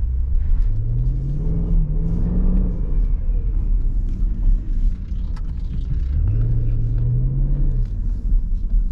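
SRT Jeep's V8 engine running with a deep rumble, heard from the cabin; it pulls up in pitch under acceleration about a second in, eases off, and pulls up again around six seconds in.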